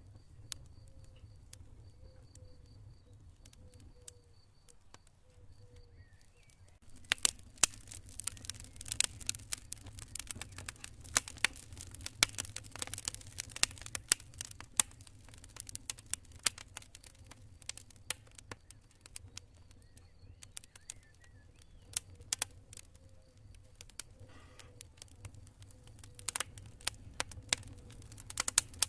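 Campfire crackling, with only a few pops for the first several seconds, then dense sharp cracks and pops from about seven seconds in, over a low steady rumble. A cricket chirps high in the background in the quieter stretches.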